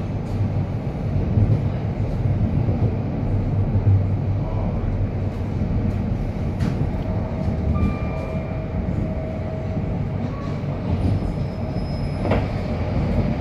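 London Overground Class 378 electric train running, heard from inside the carriage: a steady low rumble. In the second half a few faint, brief high-pitched squeals come through, along with two sharp clicks.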